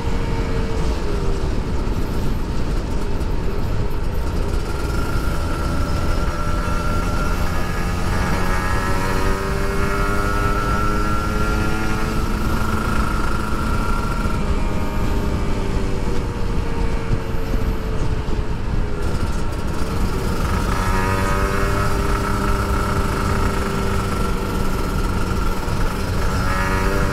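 Kawasaki Ninja RR two-stroke single-cylinder engine, fitted with an oversize-bore block on the stock carburettor, pulling under way: its note climbs in pitch twice as it accelerates and drops back in between, over a steady rush of wind on the microphone. The rider judges that the carburettor still wants a larger pilot jet.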